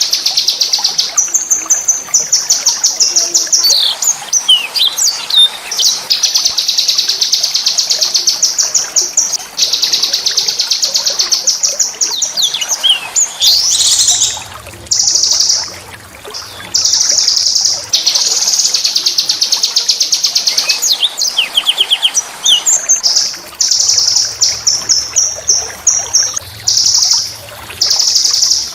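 Small songbird singing a harsh, rapid, high-pitched rolling trill in long bouts broken by short pauses, with a few quick sweeping notes between them.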